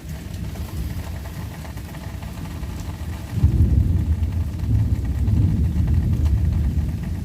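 Thunder rumbling low, swelling suddenly about three and a half seconds in and rolling on.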